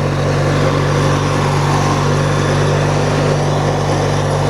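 Engine of a Hechinger (MTD-built) riding lawn tractor running steadily as the tractor drives along, held below full throttle by a faulty throttle control.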